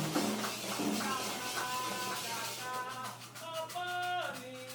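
Candomblé ritual music: voices holding sung notes over a steady shaker rhythm.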